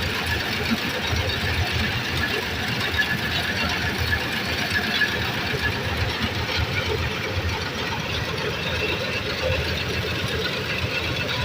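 A combine harvester's engine running steadily as it harvests wheat.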